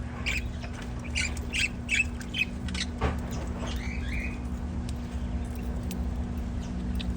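A flock of budgerigars chirping and squawking: a quick run of short calls in the first three seconds, then a few sliding calls around four seconds in, fewer after. A steady low hum runs underneath.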